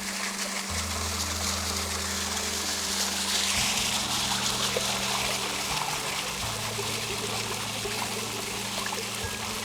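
Waterfall and stream water rushing steadily, a little louder partway through, under soft background music holding low sustained notes.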